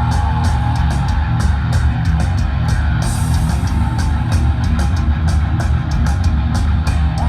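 Live heavy rock band playing loud: distorted electric guitars and bass over drums, with rapid, steady drum and cymbal hits.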